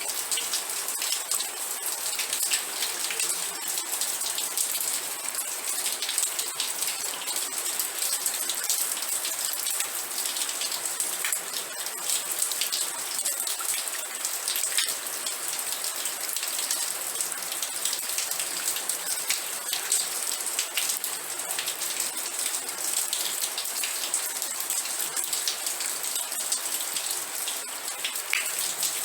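Steady rain falling onto a surface, a dense patter of individual drops with many small sharp ticks.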